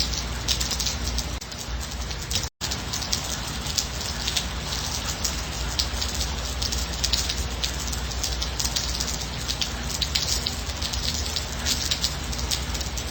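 Gentle rain falling steadily, many individual drops heard as sharp ticks over a continuous hiss and a low rumble. The whole sound cuts out for an instant about two and a half seconds in.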